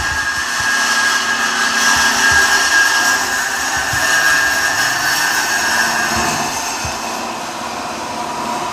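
Mazda 6 MPS's turbocharged four-cylinder engine running loudly through an exhaust with its rear silencer deleted, a steady rushing exhaust note with a thin high whine that fades about six seconds in.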